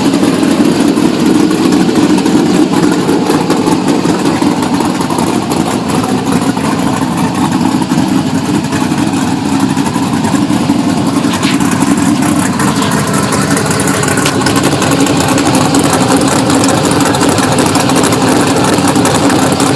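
2000 Pontiac Trans Am WS6's LS1 V8 idling steadily through long-tube headers and Magnaflow mufflers.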